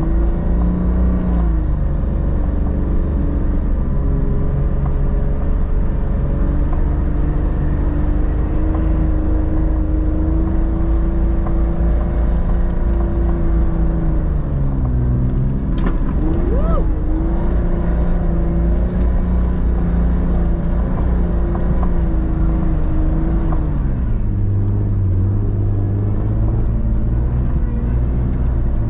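An off-road 4x4's engine pulls steadily under load through deep snow. Its pitch dips and climbs again about halfway through, then drops to a lower note near the end.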